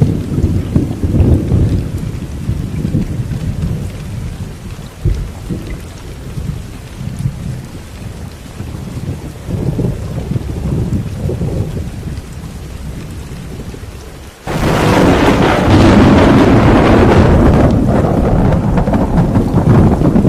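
Thunderstorm: low rolling thunder rumbles and slowly fades under steady rain. About fourteen seconds in, a sudden loud crash of thunder breaks in and keeps rolling with the rain hiss.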